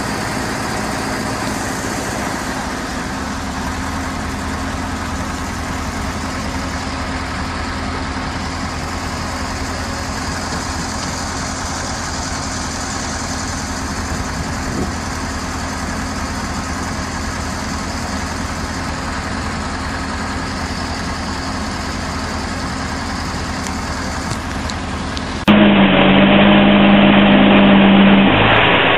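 Heavy machine's engine running steadily. About 25 seconds in it cuts abruptly to another, louder engine running at a steady pitch.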